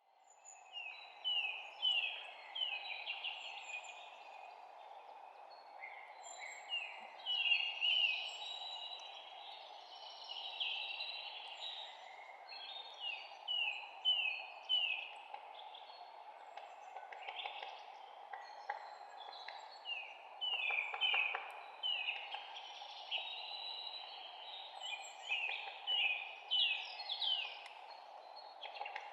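Several songbirds chirping and singing in quick runs of short, falling notes, over a steady background hiss.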